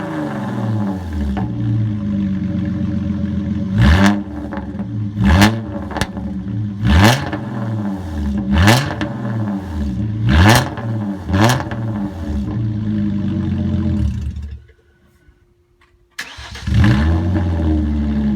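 Hyundai Genesis Coupe 3.8 V6 with a 3-inch straight-pipe exhaust (no cats, no resonators), idling and revved in about six short blips, each sweeping up and dropping back to idle. The exhaust is loud. Near the end the sound cuts out for about a second and a half, then the engine is running again.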